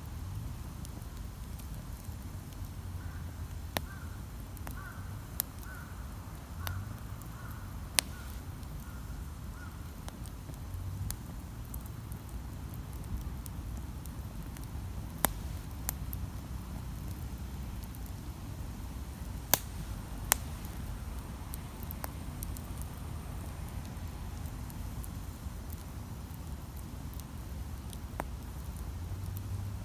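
Wood campfire burning with a steady low rumble, broken by scattered sharp pops and crackles from the burning wood, a few of them loud snaps. A bird calls faintly in a run of repeated notes during the first third.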